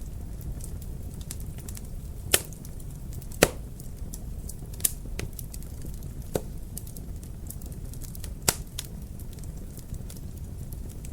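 Fireplace fire crackling over a low steady rumble, with frequent small ticks and five sharp, louder pops.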